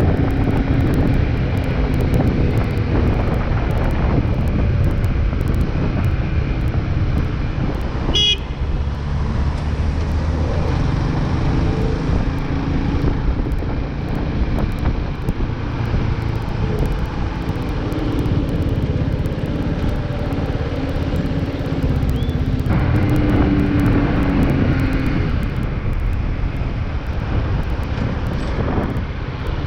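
Motorcycle riding in road traffic: a steady engine and wind rumble, with pitch shifts as the engine speed changes, and a short sharp sound about eight seconds in.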